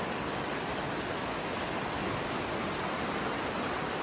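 Floodwater rushing in a steady, even roar of water noise, with no breaks or distinct splashes.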